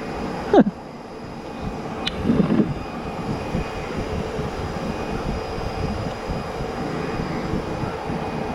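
A steady engine drone that grows slowly louder, with a brief click about two seconds in.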